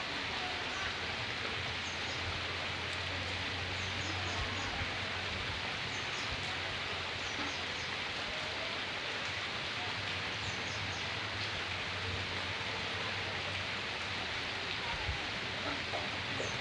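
Steady rain falling, an even hiss with no let-up, with faint short high chirps every few seconds.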